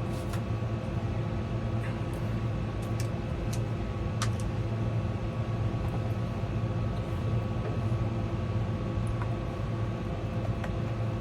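A steady low machine hum with a few faint steady tones over it, and several short light clicks and taps of something being handled.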